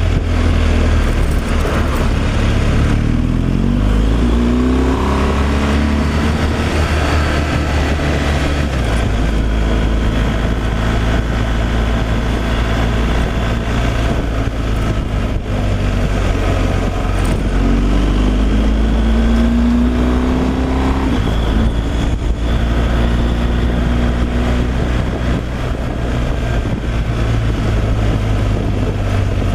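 Truck's diesel engine running on the road. Its note climbs in pitch twice, and each climb ends in a sudden step, about a third of the way in and again about two-thirds of the way in.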